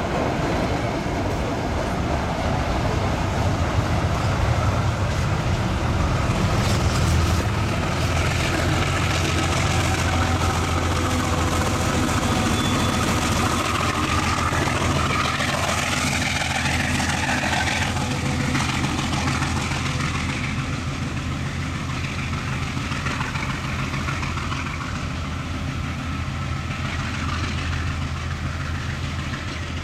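A train consist moving along the track: a steady low drone under the running noise of wheels on rail, easing off a little in the second half.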